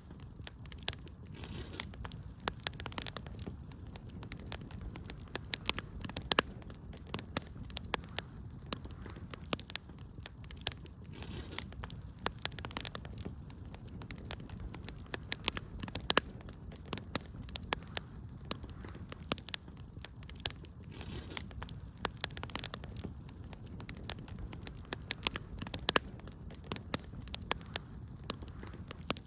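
Wood fire crackling: irregular sharp pops and snaps, many each second, over a low steady rumble of burning.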